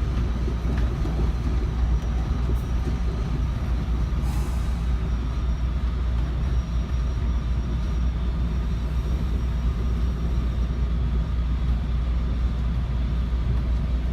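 Steady low rumble inside a moving commuter train car, its wheels running on the track.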